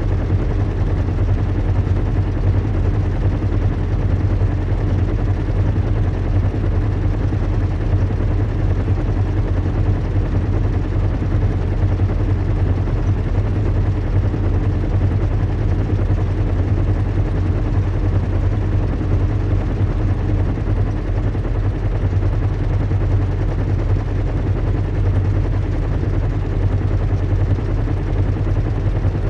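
Recreated sound of a zeppelin airship in flight: a steady low hum with an even hiss above it.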